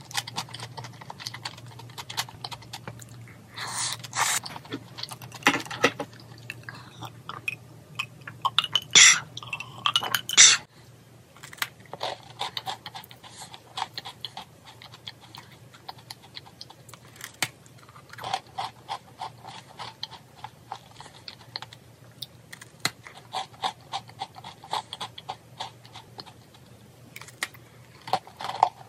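Close-miked eating sounds: chewing food with many small wet clicks and crunches, with a few louder crackles in the first ten seconds. After about ten seconds it is chewing a chocolate chip cookie, a steady run of small crunchy bites.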